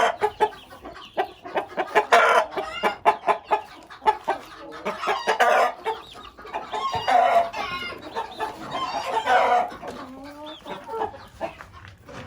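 Chickens clucking, with a rooster crowing, in repeated calls every couple of seconds.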